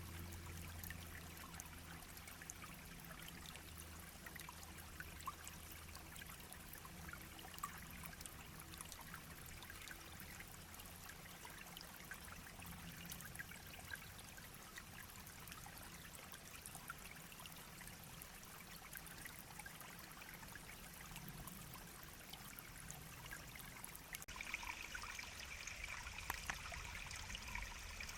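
A small brook babbling and trickling: a steady wash of running water with many tiny splashes. About 24 seconds in it turns brighter and a little louder.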